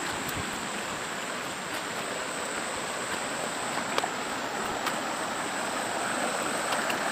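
Steady rush of flowing stream water, with a thin steady high-pitched whine above it and a couple of faint clicks about four and five seconds in.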